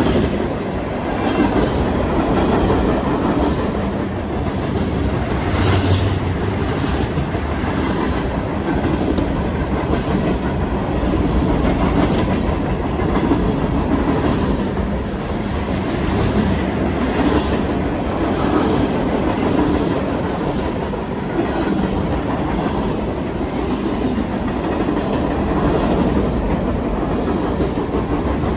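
Freight train rolling past at close range: a steady rumble of cars, with wheels clacking over rail joints at irregular intervals.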